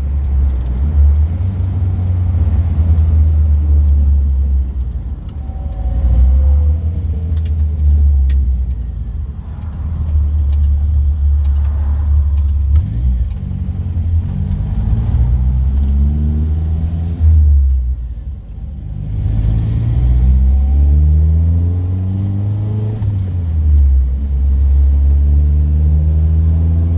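Car engine and road rumble heard from inside the cabin, a heavy low drone. After a steadier stretch the engine note climbs three times as the car accelerates up through the gears, dropping back between climbs at the gear changes.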